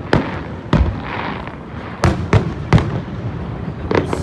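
Aerial fireworks shells bursting overhead: about seven sharp bangs at uneven spacing, with a steady crackling hiss between them.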